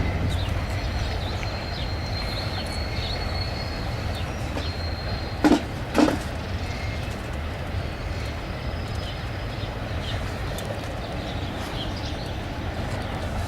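Steady low rumble of wind on the microphone, with two sharp knocks half a second apart about midway.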